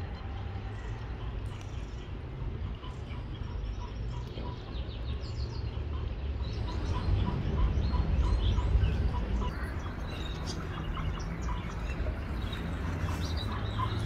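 Birds chirping: many short, high chirps and chip notes that come thicker from about halfway through, over a low steady rumble.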